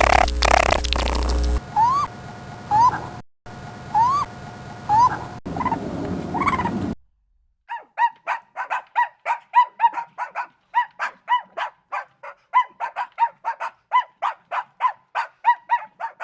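Animal calls: first a few short rising calls spaced about a second apart, then, after a short pause, a fast run of short repeated calls, about three a second. A stretch of music ends about a second and a half in.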